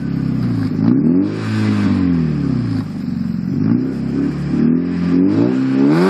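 Volkswagen Jetta Mk2's ABA 2.0-litre four-cylinder revved through a Borla exhaust: a series of throttle blips, the engine note rising and dropping back several times, with the highest rev near the end.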